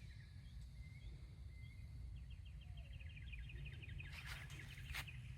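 Small bird singing faintly outdoors: a few short chirps, then a rapid trill of quickly repeated notes from about two seconds in, over a steady low rumble. Two short rustling bursts come near the end.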